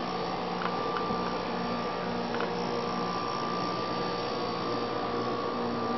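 A steady electrical hum made of several held tones over a faint hiss, with a few faint clicks in the first few seconds.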